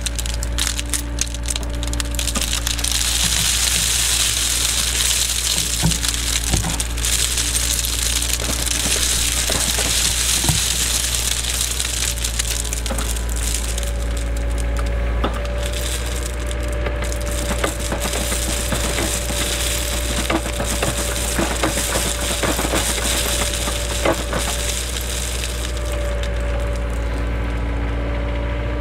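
Cat 307 excavator running steadily, its engine hum joined by a steady hydraulic whine, over the irregular crunching and clattering of stone and soil being worked by the bucket.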